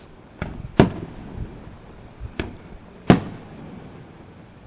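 Aerial fireworks shells bursting, four sharp booms with a short decaying rumble after each, the loudest about a second in and about three seconds in.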